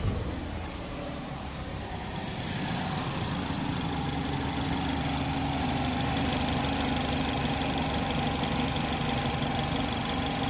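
2010 Chevrolet HHR engine idling steadily while it is run with the heater on to burp air out of its cooling system; it gets a little louder about two seconds in, then holds steady.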